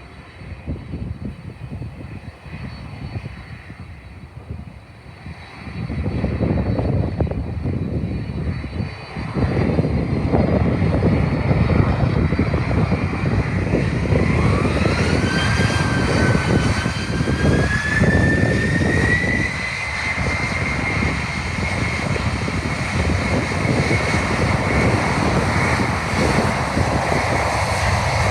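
Boeing 767 freighter's jet engines on takeoff: a rumble that grows louder about six seconds in and again about ten seconds in, then a whine that rises in pitch from about halfway through and holds steady.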